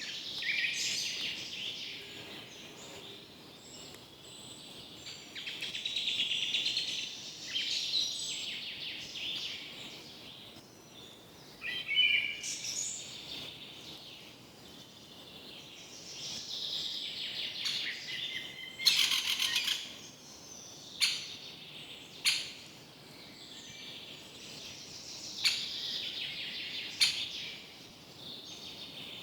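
Forest birds singing and chirping, several calls overlapping, with a few short sharp calls standing out in the second half.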